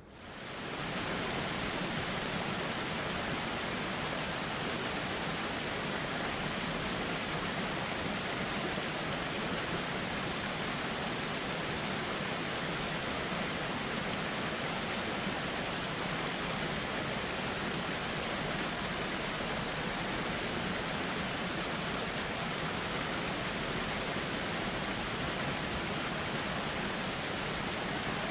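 Steady rush of flowing river water, an even hiss with no distinct splashes. It fades back in from a brief dip over the first second.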